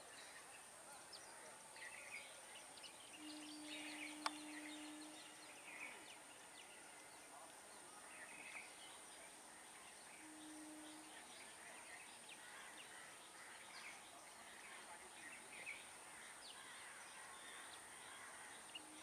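Faint rural trackside ambience: scattered bird calls over a steady high-pitched drone, with two short low hums around three and ten seconds in. The approaching EMU train is not yet audible.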